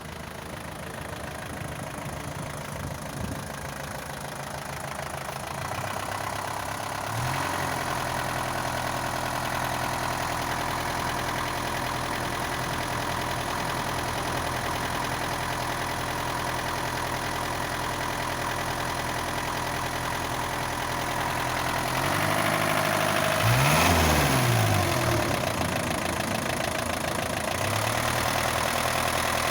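Isuzu NPR truck's diesel engine idling; its speed steps up about seven seconds in, and near the end it is revved up briefly and drops back to idle.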